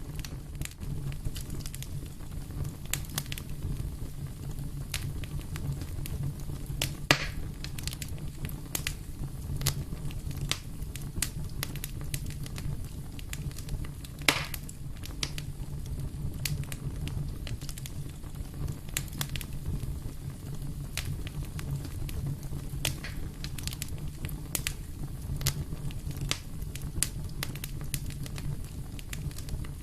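Fire crackling in a fireplace: a steady low rumble under a stream of small crackles and sharper pops, the loudest pops about seven and fourteen seconds in.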